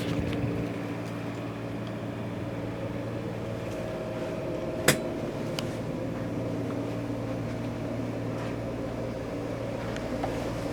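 Steady low machine hum with a single sharp click about five seconds in.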